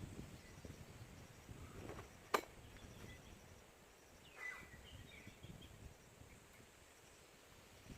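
Faint forest ambience with a low rumble. A single sharp click about two seconds in, and a bird's short falling chirp about four and a half seconds in.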